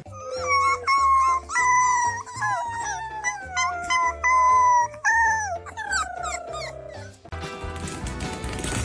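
A dog howling in long, wavering calls that slowly fall in pitch, over background music with a steady beat. The howling stops about seven seconds in.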